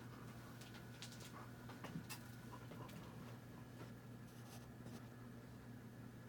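Hampton Bay Huntington II 52-inch ceiling fan running: a faint steady low motor hum with scattered light ticks.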